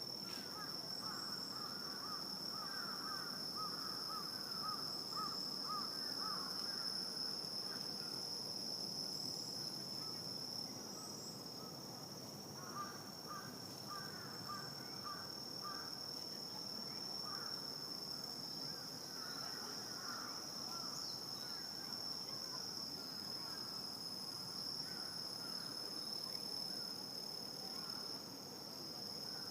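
Night ambience of insects, crickets by their sound, trilling in one steady high continuous tone. Over it, another animal calls in rapid pulsing bouts, three times.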